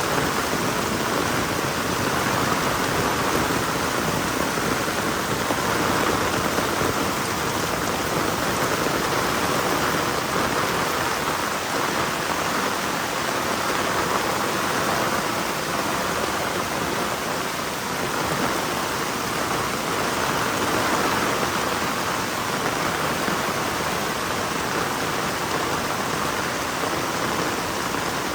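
Heavy rain falling steadily, an even unbroken hiss of rain with no thunder or other distinct events.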